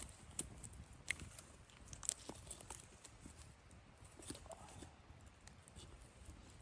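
Faint, irregular small clicks and crackles, a dozen or so scattered unevenly, over a low steady background hiss.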